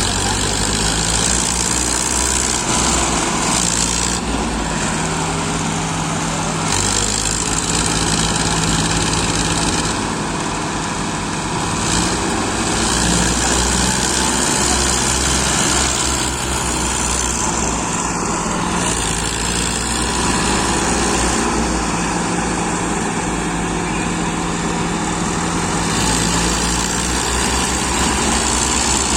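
Tractor engine running steadily under load, its low pitch holding and wavering slightly.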